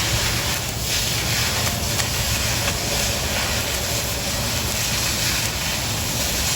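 Oxy-fuel cutting torch hissing steadily as it cuts through quarter-inch steel plate.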